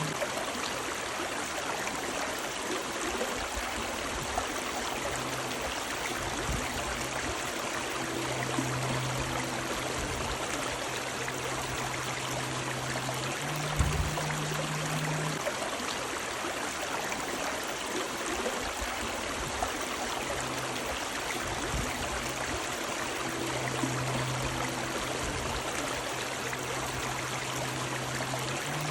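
River water running steadily, a continuous rushing and trickling. A low hum comes and goes beneath it, and a single soft thump sounds about fourteen seconds in.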